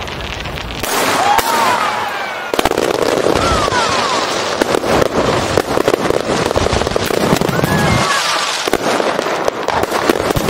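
Fireworks going off in a dense, continuous crackle of pops and bangs, stepping up about a second in and thickening further from about two and a half seconds on. Short gliding whistles sound over the top.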